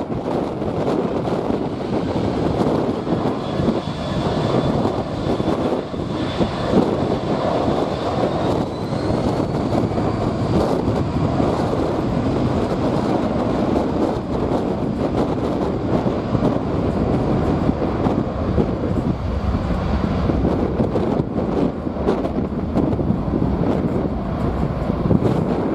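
Boeing C-17 Globemaster's four Pratt & Whitney F117 turbofan engines running with a loud, steady noise and a high whine that rises slightly about nine seconds in.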